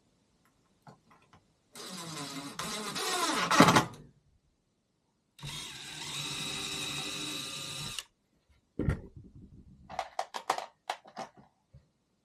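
A small motor runs in two spells of about two seconds each. The first changes in pitch and grows louder, and the second holds steady. Each starts and stops abruptly, and they are followed by a run of sharp clicks and knocks.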